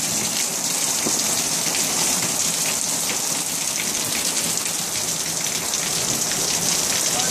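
Steady rain falling in a thunderstorm, an even hiss with no clear thunder.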